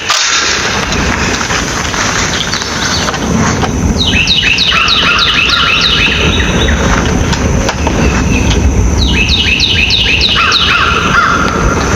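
A songbird singing a fast run of about ten quick descending notes, twice, about four and nine seconds in, over a steady low rumble.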